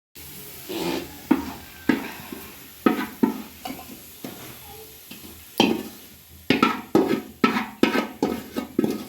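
A metal spoon scraping and knocking against a pan of hot Dalda and oil, with irregular strikes every half second or so over a faint steady sizzle, as fried onions, cashews and raisins are scooped out of the fat.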